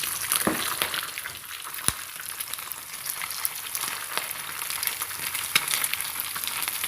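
Chicken taquitos frying in hot oil in a pan: a steady sizzle and crackle with scattered sharp pops of spattering grease, one louder pop about two seconds in.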